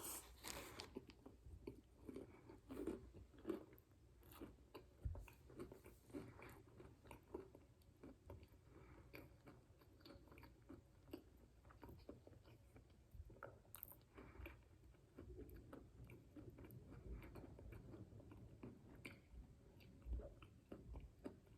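A bite into a KFC fried chicken sandwich on donut buns, then close-up chewing, faint throughout, with small crunches and wet mouth clicks.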